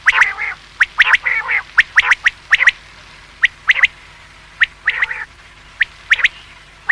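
Common quail calling: sharp, short notes repeated in quick groups, with raspy, lower calls between the groups.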